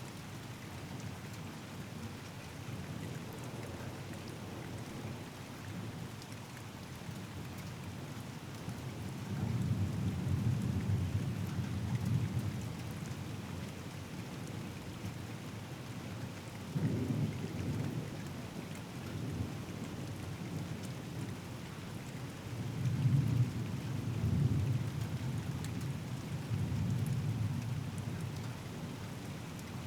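Steady rain falling during a thunderstorm, with low rolling thunder rumbling several times: a long rumble about a third of the way in, one that starts sharply a little past halfway, and another drawn-out rumble near the end.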